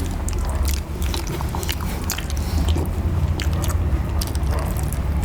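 People chewing mouthfuls of banana, a run of wet mouth clicks and smacks over a steady low rumble.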